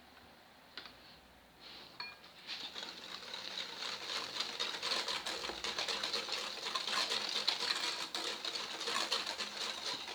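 A wet egg, sugar and oil batter being beaten by hand in a bowl: a utensil clicks rapidly and evenly against the bowl, starting about two seconds in.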